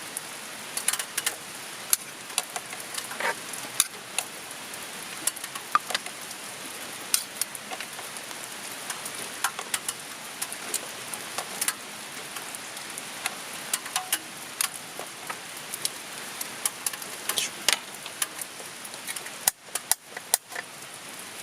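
Steady rain hissing, with irregular sharp drops tapping on the tarp overhead.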